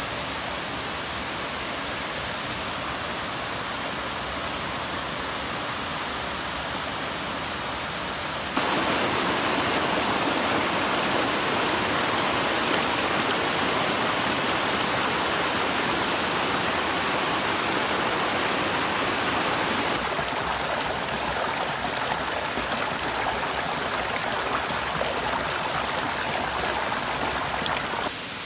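Water rushing at a waterfall, a steady hiss of falling water. It gets suddenly louder about nine seconds in and drops back around twenty seconds.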